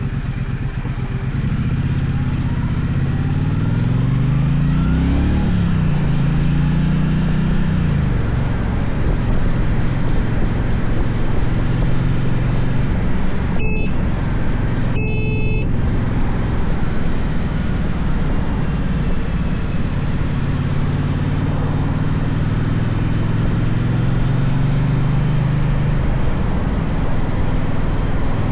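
Gaokin GK1200 motorcycle engine pulling up through the revs and then easing off, cruising steadily, and climbing again later, under a steady rush of wind noise.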